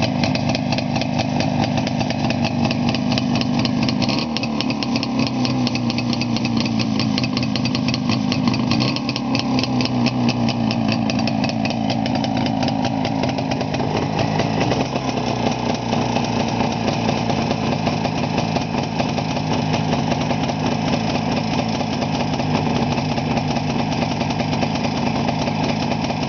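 Jawa 350/634 two-stroke twin-cylinder engine running steadily, its speed falling and rising a few times. It is being run up after winter storage.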